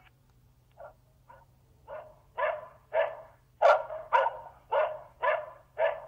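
Sagem myC-2 phone playing a barking-dog ringtone through its small speaker: about ten dog barks, roughly two a second, starting faint and growing louder over the first few seconds.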